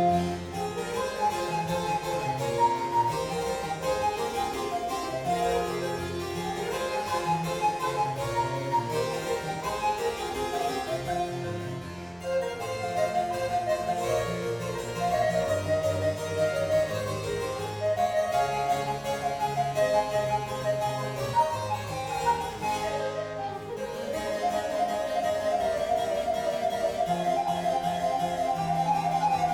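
Baroque chamber music led by harpsichord, with a held melody line above a moving bass line, easing off briefly at phrase ends about twelve seconds in and again near 23 seconds.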